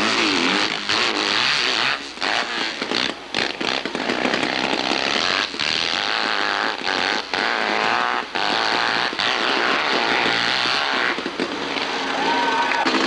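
Racing hillclimb motorcycle engine running hard at high revs, its pitch wavering up and down, with short drops in loudness several times as the throttle is chopped or the rear wheel loses and regains grip.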